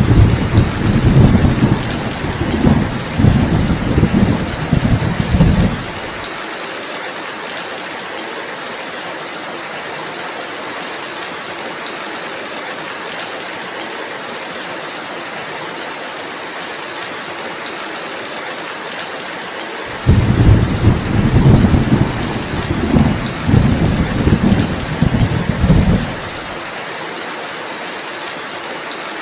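Steady rainfall with two long rolls of thunder. The first rumbles from the start for about six seconds; the second breaks in abruptly about twenty seconds in and rolls for about six seconds.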